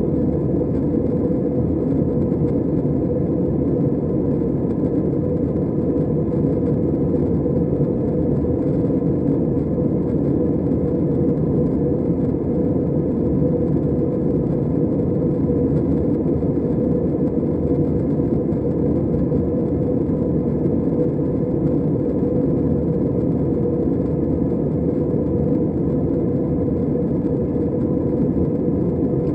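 Steady cabin noise aboard an Airbus A320 in flight: a constant rush of engines and airflow, with a steady hum running through it.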